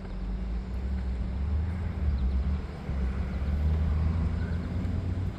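Low, steady engine rumble with a faint hum above it, growing slightly louder just after the start and holding steady.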